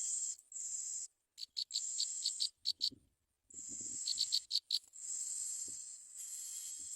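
Bar-winged prinia nestlings begging: high, thin hissing calls that start and stop, broken twice by a quick run of about five sharp chips.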